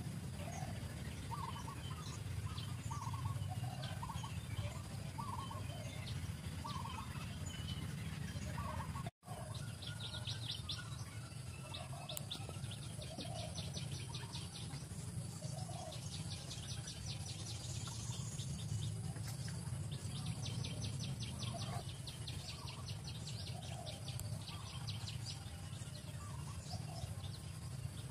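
Birds calling outdoors: short calls repeating every second or so, over a steady low rumble. After a brief dropout about nine seconds in, a fast high ticking trill joins and keeps coming in bouts.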